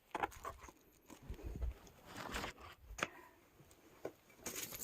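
Faint handling noises: scattered rustles and light knocks, a few soft low thuds, and one sharp click about three seconds in.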